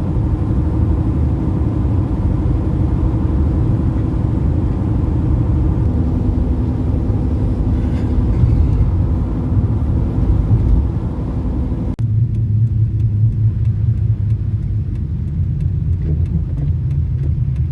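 Steady low rumble of a moving car, heard from inside the cabin: engine and road noise with a faint engine hum. About twelve seconds in the sound changes abruptly, the hiss falls away and a deeper hum takes over.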